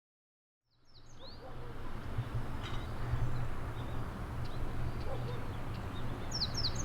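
Outdoor ambience fading in after a brief silence: a bird gives a few quick chirps about a second in and again near the end, over a steady low hum.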